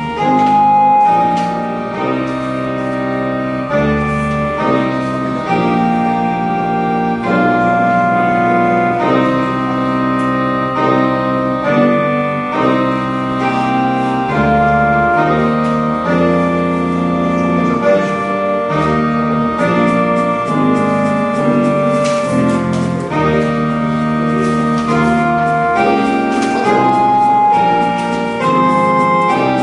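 Slow organ-like keyboard music in long held chords that change every second or two, played for a moment of silent tribute (묵념) to the ancestors.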